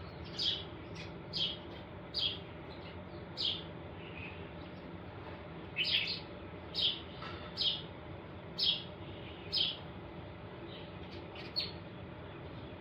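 A small bird chirping: short, high single chirps about once a second, with a pause of a couple of seconds partway through, over a faint steady background hiss.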